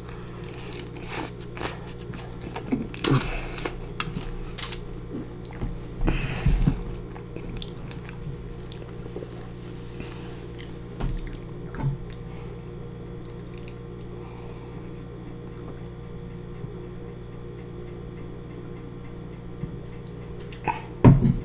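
Close-mic chewing and biting of a mouthful of sauce-covered french fries: wet mouth sounds and irregular clicks over the first several seconds, with a few more sounds around ten to twelve seconds in. A steady low hum runs underneath.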